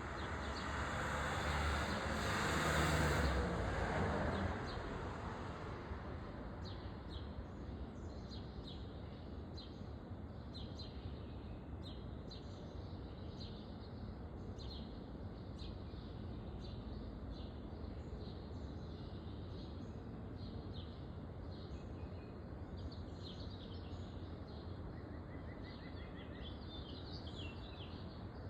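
Many small backyard birds chirping, a steady scatter of short high calls with a quick trill near the end. In the first few seconds a broad rush of noise swells and fades out.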